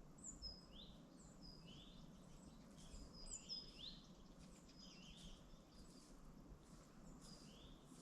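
Faint birdsong: short, high chirping calls repeated many times, each a quick falling note followed by a short rising one.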